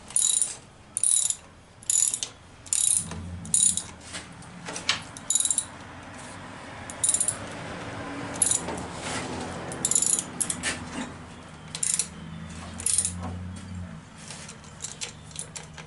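Ratchet wrench clicking in quick repeated strokes, about one a second for the first several seconds and then more scattered, as fasteners are run down. A low steady hum sits underneath from about three seconds in until near the end.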